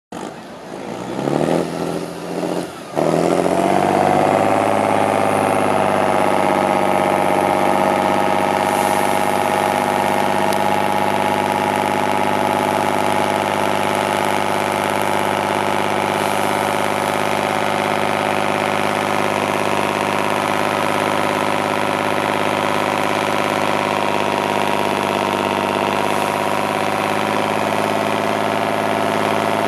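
Off-road trial truck's engine revving in a few short surges, then held at a steady, even speed for the rest of the time.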